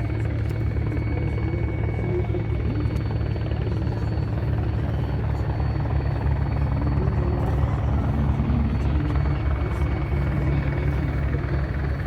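Rotorcraft's rotors running with a steady low, fast-pulsing thrum and a faint steady high whine over it.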